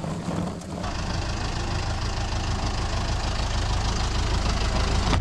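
A vehicle engine running steadily with a low, even hum, which comes in about a second in.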